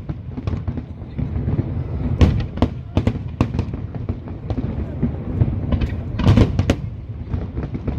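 Aerial fireworks display: a run of sharp bangs and crackling reports over a continuous low rumble of distant explosions, with a dense cluster of bangs about six seconds in.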